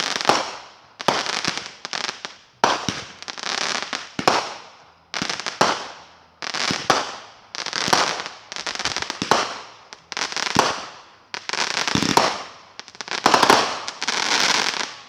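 Consumer fireworks going off in quick succession, about one burst a second, each a sharp bang trailing off into crackle.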